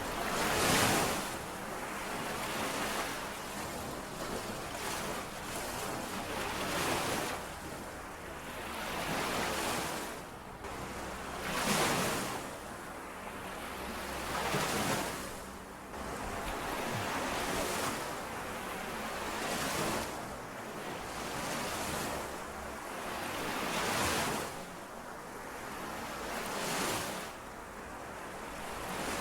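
Small lake waves lapping against the shore, washing in and out every two to three seconds, with a low rumble of wind on the microphone.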